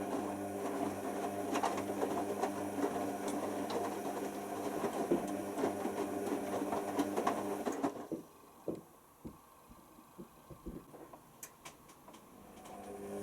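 Hoover Nextra HNWL7146 washer dryer's drum motor running with a steady hum as it turns the drum, with clicks and knocks from the load tumbling. The motor stops about eight seconds in, leaving a few faint knocks from the settling drum, and starts up again near the end.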